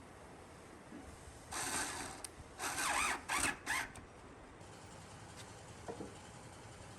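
Short mechanical rasping, ratchet-like bursts: one about a second and a half in, then three quick ones around three seconds in.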